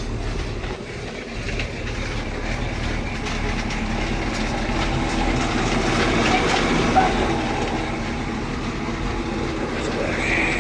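MerCruiser 7.4L (454) big-block V8 marine engine idling steadily just after starting.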